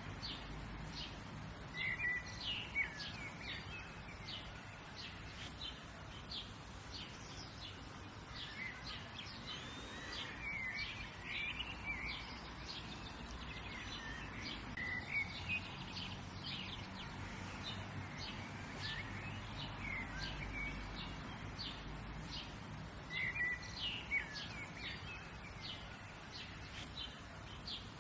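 Several birds chirping and singing, with many short, high notes and twittering phrases over a steady low background hum of outdoor noise.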